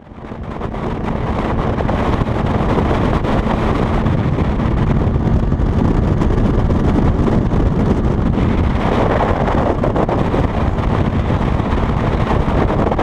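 Boat motor running with heavy wind buffeting the microphone, a steady rushing noise with a faint low hum, fading in over the first second or two.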